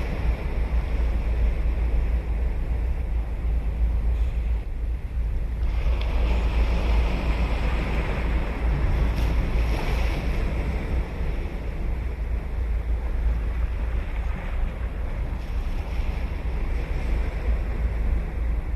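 Ocean waves breaking and washing ashore in a steady roar that swells and eases, with a low wind rumble on the microphone underneath.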